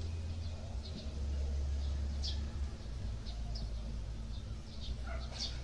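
A bird chirping: short, high chirps repeated every half second or so, over a steady low hum.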